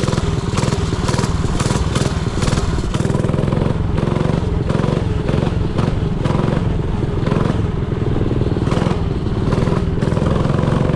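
Dirt bike engine running while being ridden, with frequent clattering knocks throughout.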